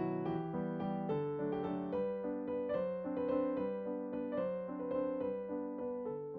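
Background music played on a piano or electric keyboard, with a steady run of notes.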